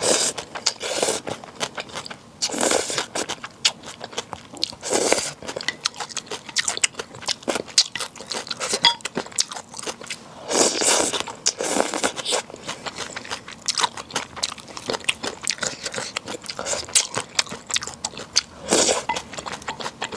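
Close-miked eating of bibim naengmyeon: steady chewing with many small crunchy clicks, broken by several louder, brief mouthfuls.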